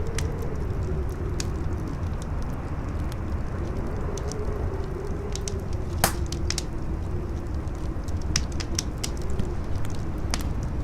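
Campfire crackling, with irregular sharp snaps and pops, the loudest about six seconds in. Under it, strong wind howls in a low, wavering tone over a deep rumble.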